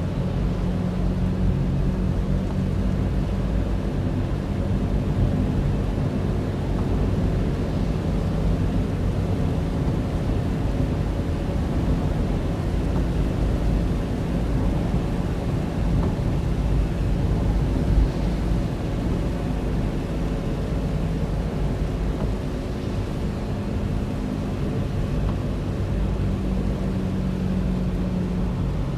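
Steady engine and road noise of a car being driven, heard from inside the car, a low rumble with a faint engine hum.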